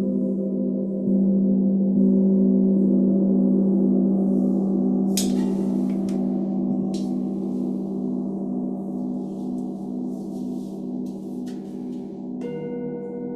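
Sound bowls and a gong ringing together in long sustained tones with a slow pulsing beat, struck afresh at the start and about one and two seconds in. A new, higher bowl tone joins near the end, and brief high shimmering sounds come about five seconds in and again near the end.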